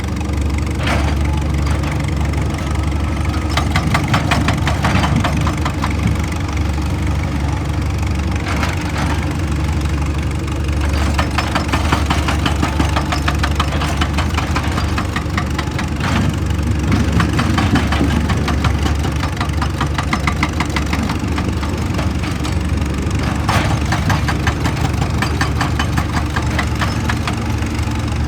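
Heavy excavator diesel engine running steadily, with several spells of rapid rattling a few seconds long as the machine works the rock.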